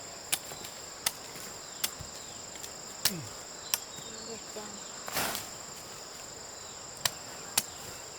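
Steady high chirring of crickets, with sharp chopping strikes about once a second: a hand tool biting into soil or plant stems. The strikes pause in the middle, where there is a brief rustling rush.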